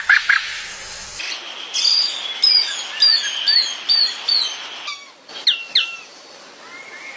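Wild birds singing: a run of about six short, high chirps that fall in pitch, over a steady high hiss. They are followed by two sharp whistles sweeping steeply downward, then fainter calls.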